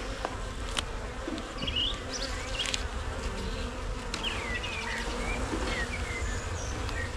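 Honey bees buzzing in a steady drone around an open hive during a frame inspection, with a couple of sharp clicks.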